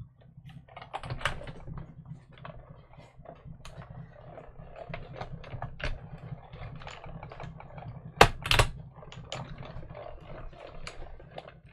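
Irregular light clicks and taps of metal craft dies and cutting plates being handled and set up for a die cut, with a sharp double clack a little past eight seconds.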